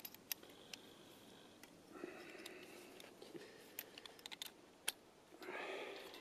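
Footsteps crunching in deep snow, a scatter of small crisp clicks with a couple of longer crunching steps, one about two seconds in and one near the end.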